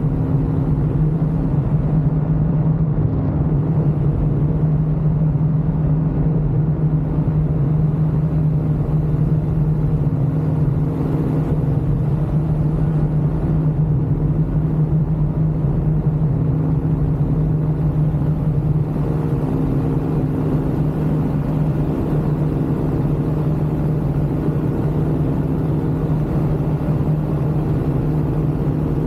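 Ultralight aircraft engine and propeller running steadily in flight, a constant droning hum that holds one pitch.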